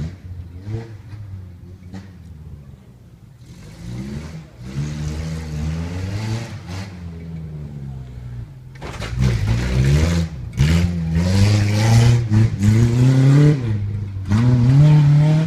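Off-road competition truck engine revving hard in repeated bursts, its pitch climbing and falling over and over, getting much louder about nine seconds in.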